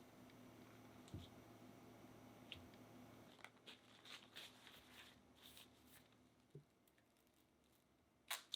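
Faint kitchen handling sounds: a low steady hum, then a run of light clicks and taps from about three and a half seconds in, and a sharper double click near the end.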